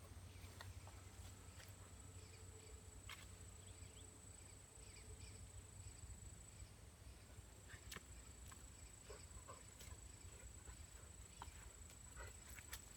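Near silence: a faint steady high-pitched whine over a low hum, with scattered small clicks and ticks.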